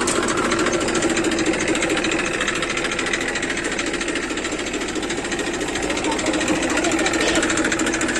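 Tractor engine running steadily with a fast, even clatter.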